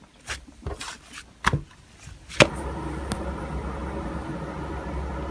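A handful of light clicks and taps, then one sharp click about two and a half seconds in, after which a steady low hum sets in.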